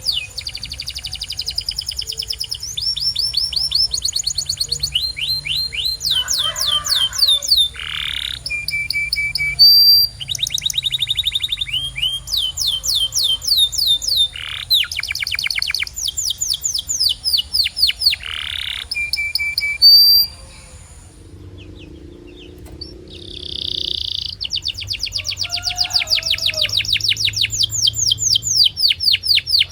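Domestic canary singing: a long song of rapid trills, each a run of quickly repeated high notes, changing pitch from phrase to phrase, broken by a pause of about two seconds around two-thirds in before the trilling resumes.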